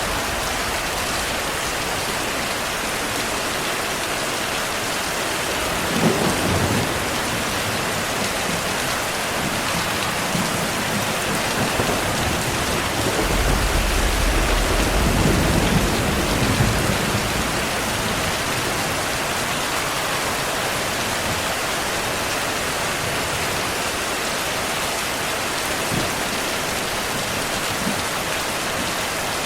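Steady rain falling, with thunder rumbling low: a short rumble about six seconds in and a longer one in the middle.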